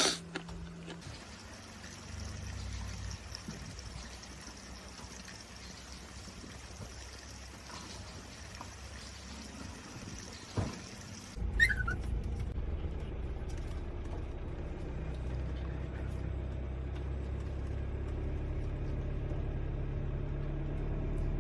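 Faint running water for about the first eleven seconds, then a vehicle's engine and road rumble start suddenly and run on steadily, growing slightly louder.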